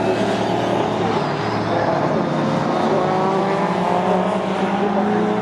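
Several racing touring cars' engines running hard together, their pitch rising slowly as they accelerate.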